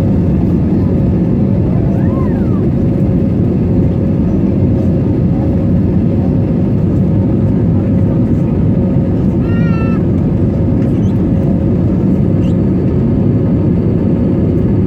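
Steady cabin noise of an Airbus A320neo airliner in flight: engine and airflow rumble with a constant hum. Twice, about two seconds in and near ten seconds in, a brief high wavering squeal cuts through, like a small child's or animal's cry.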